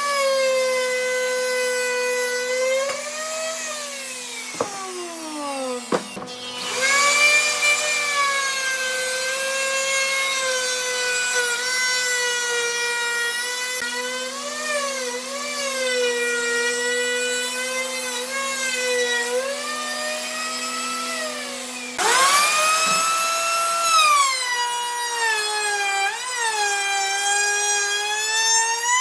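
High-speed electric power tool working wood, its motor whine sagging and recovering under load. It winds down about five seconds in and starts up again soon after, then again with a rising whine about 22 seconds in.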